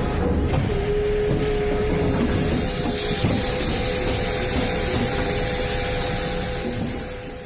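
A machine running steadily with a dense hiss and a faint steady whine, fading out near the end.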